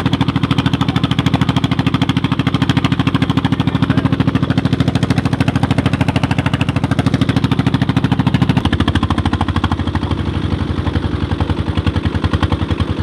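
Old Petter diesel engine driving a tubewell pump, running steadily with an even, rapid beat; its tone shifts about two-thirds of the way through.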